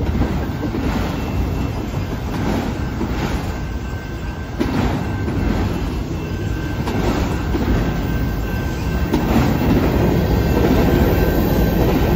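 Freight train cars rolling past at close range, a steady rumble of steel wheels on rail with repeated clacks as the wheels cross the rail joints. The sound grows louder a little under five seconds in and again near the end.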